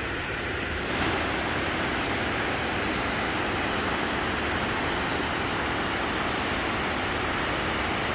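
Agate Falls, a waterfall, rushing steadily, a little louder from about a second in.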